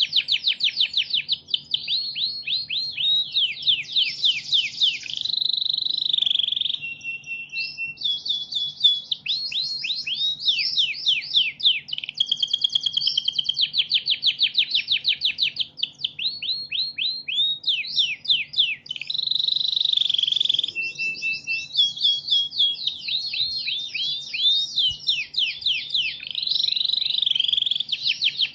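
Recorded songbird song played as masteran training audio: fast runs of sharp chirps and trills, several different song patterns following one another with only brief gaps. A faint low hum runs underneath.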